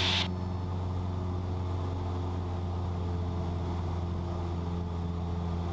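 Cessna 172's four-cylinder piston engine and propeller droning steadily in cruise, heard from inside the cabin as an even low hum with several steady tones above it.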